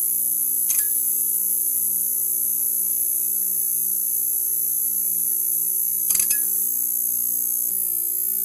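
Neon sign buzzing: a steady electrical hum with a constant high-pitched hiss over it, broken by brief crackles about a second in and again around six seconds.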